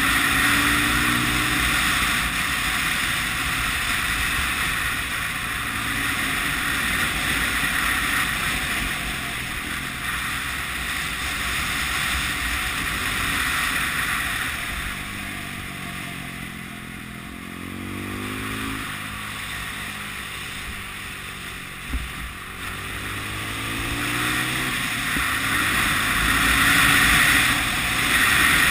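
Honda CB 250 RS single-cylinder four-stroke engine running under way through bends, with wind rushing over the microphone. The engine eases off and goes quieter a little past the middle, then its note climbs again as it accelerates, with a brief sharp knock about two-thirds of the way in.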